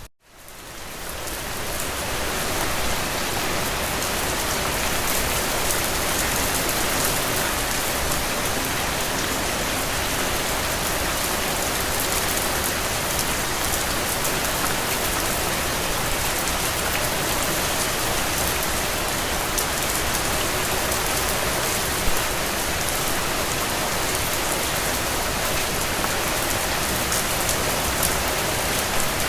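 Steady rain, a dense even hiss of falling drops. It cuts out for an instant at the start and fades back in over a couple of seconds, and there is one louder drop tap about three quarters of the way through.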